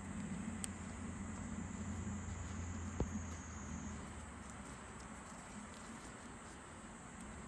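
Outdoor ambience with insects trilling steadily at a high pitch over a low hum; the trill fades about four seconds in. A small click comes just under a second in and a sharp knock about three seconds in.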